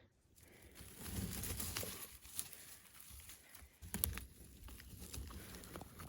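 Faint footsteps and rustling through leaf litter and twigs, with a few sharp snaps and crackles.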